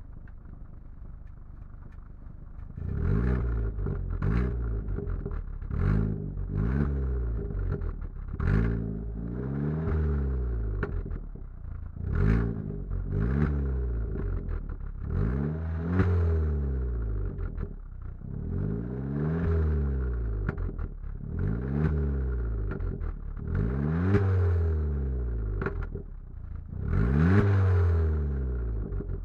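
Car engine with its catalytic converter removed (decat exhaust), idling at first, then blipped repeatedly from about three seconds in: quick revs that rise and fall every second or two.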